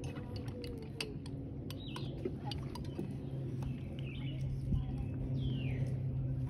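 A few short bird chirps, each falling in pitch, over a steady low hum that grows louder toward the end, with scattered sharp clicks and knocks.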